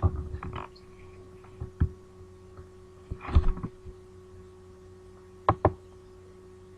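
Computer mouse clicks and knocks of the mouse on the desk, a handful of sharp separate clicks with a quick double click about five and a half seconds in, over a steady faint electrical hum.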